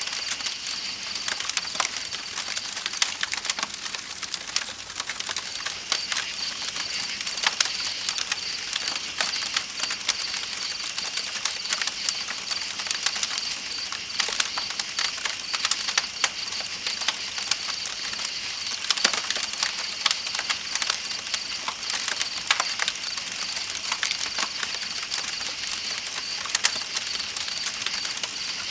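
Layered night ambience: a campfire crackling with frequent sharp pops, over a steady rush of flowing river water and the continuous high, pulsing chirping of night insects.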